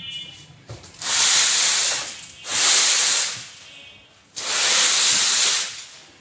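Three loud bursts of hissing noise, each about a second long, with short quieter gaps between them.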